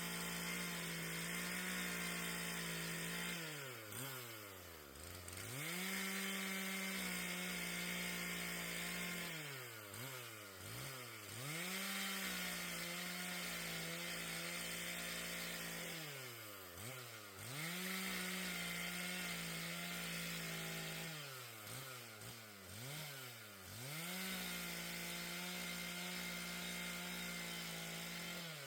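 Two-stroke chainsaw cutting fallen trees into firewood. It is held at full throttle for a few seconds at a time, the revs falling away and rising again about five times between cuts.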